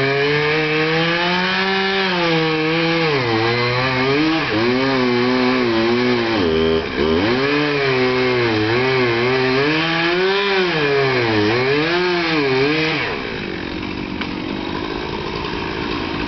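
Two-stroke STIHL chainsaw cutting wood, its engine note rising and sagging repeatedly as the chain is loaded and eased in the cut. About three-quarters of the way through the high engine note falls away and the sound drops to a lower, quieter level.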